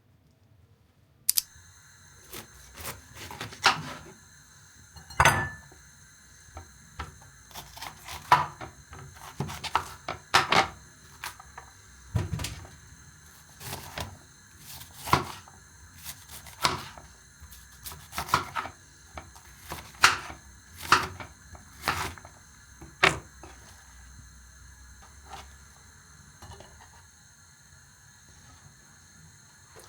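Dishes and utensils clinking and knocking irregularly as kitchen things are handled, over a faint steady hum that starts about a second in. The knocks thin out in the last few seconds.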